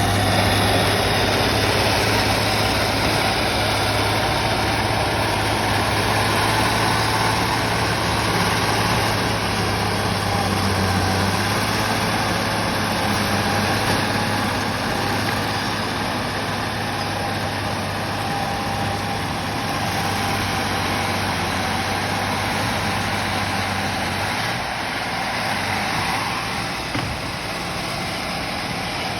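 An old bulldozer's diesel engine running steadily, with a low, even hum that fades out near the end.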